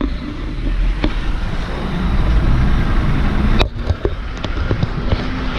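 Vehicle running slowly on a rough mountain track, heard from inside: a steady low engine-and-road rumble with scattered knocks and rattles as it bumps over the ground.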